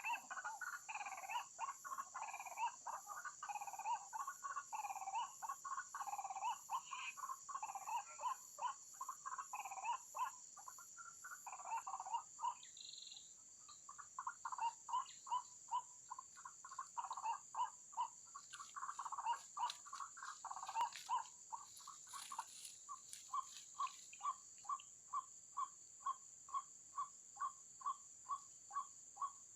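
White-breasted waterhens calling, a run of repeated croaking 'ruak-ruak' notes that settles into an even series of about two notes a second near the end. A steady high-pitched whine runs under it.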